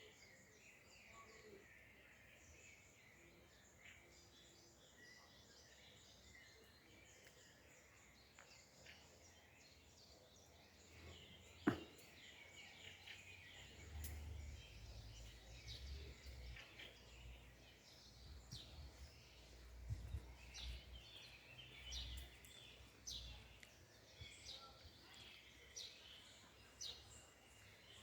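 Faint songbirds chirping and calling, with quick sharp high notes repeating about once a second in the second half. A single sharp click sounds about twelve seconds in, and a low rumble comes and goes after it.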